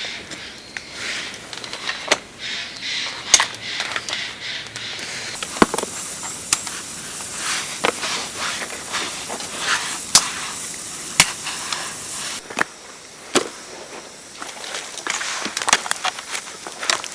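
Irregular sharp knocks and clicks, a few seconds apart and coming faster near the end, over a steady hiss.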